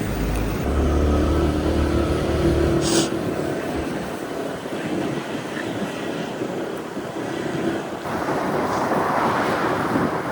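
Steady vehicle and road noise with a low rumble, and wind on the microphone growing louder near the end.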